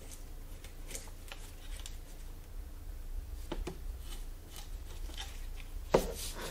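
Gloved fingers rubbing and picking along a plastic BMW E46 trunk-lid trim strip, making faint scratching and small clicks, with a sharper knock past halfway and a louder one near the end.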